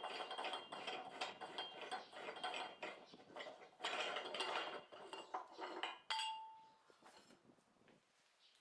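Metal tyre-changing tools clinking and scraping on a manual tyre changer, with rapid irregular clinks. About six seconds in comes one sharp metal strike that rings on a clear tone before dying away.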